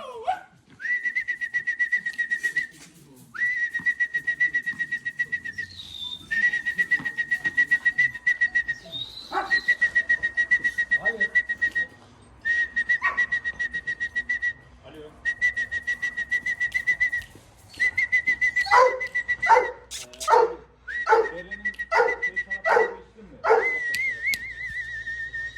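A trilling whistle with a fast rattle through it, blown at one steady pitch in repeated blasts of about two seconds each. Near the end a Doberman puppy yips and barks several times between shorter blasts.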